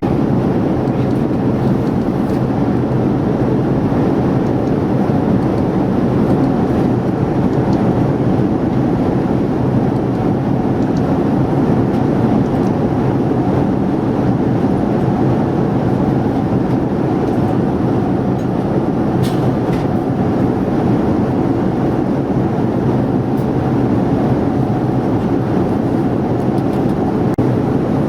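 Steady, even rushing cabin noise of a Boeing 787-9 airliner in flight, with a few faint clicks.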